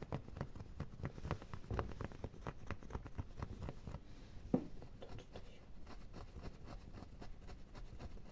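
Fingernails scratching quickly and irregularly over a small toy dog figure, a dense run of light scratchy clicks with one sharper click about halfway through.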